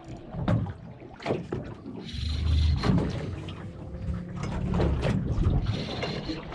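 A boat at sea: water slapping and lapping against the hull, with scattered knocks and low rumbling gusts of wind on the microphone.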